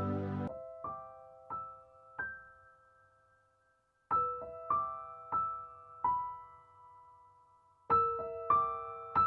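Background piano music: slow, sparse notes struck one or two at a time and left to ring, with a fuller passage breaking off about half a second in and a short pause about three seconds in.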